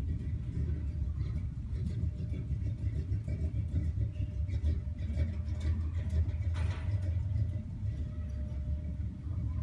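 1960 Chevrolet C-10 pickup truck on the move, its engine running with a steady low drone, with a brief higher-pitched noise about two-thirds of the way through.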